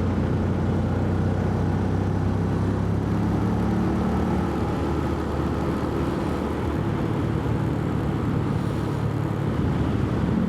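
Motorbike engine running steadily in third gear on a steep climb, its note changing about halfway through as the hill is crested, with wind rushing over the microphone.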